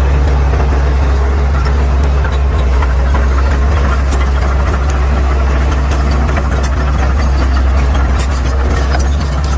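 Caterpillar D6R XL bulldozer's diesel engine running steadily with a deep, even hum, with scattered clicking and crackling near the end.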